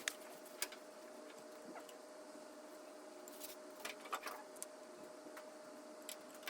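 Faint scattered clicks and light scrapes of hand work on a pickup's tail light assembly: small plastic and metal parts being handled and fitted, the two sharpest clicks right at the start.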